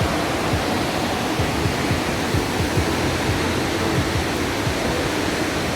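Steady rushing of a large waterfall, the Grojogan Sewu falls, an even roar of falling water.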